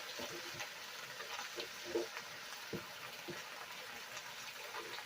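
Chicken and Chinese broccoli stir-frying in hot oil: a steady sizzle with scattered small pops and crackles.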